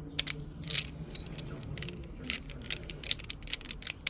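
Irregular small clicks and taps of metal tools and parts being handled as a jeweler swaps the polishing attachment for a silicone wheel, over a low steady hum that fades out about two seconds in.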